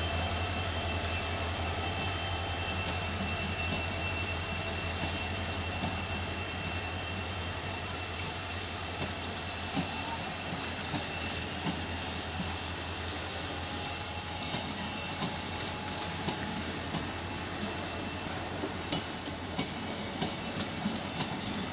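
Passenger coaches rolling past as the train pulls out, with steady running noise and a few high steady tones. Wheels click and knock over rail joints, more and more often in the second half.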